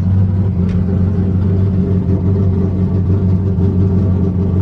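Nissan S14's swapped 408 cubic inch LS V8 running at a steady speed, a deep, even engine rumble with no revving.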